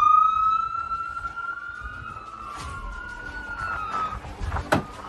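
Emergency vehicle siren wailing: a long tone that has just swept up holds high and slides slowly, fading about four seconds in, while a second siren's tone rises beneath it. A single sharp knock sounds near the end.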